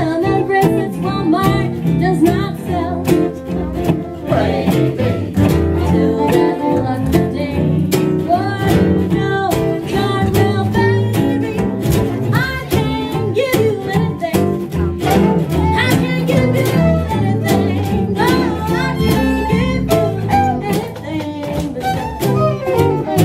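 A western swing band playing live: fiddles carry the melody over bass and guitars, with a steady rhythm-guitar beat.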